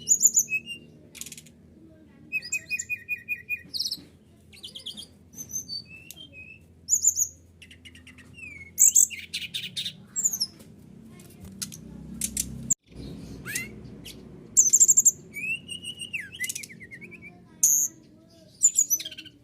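Brown-chested jungle flycatcher (SRDC) singing: a varied run of high chirps, quick trills and short whistled glides, phrase after phrase with brief gaps, over a faint low hum.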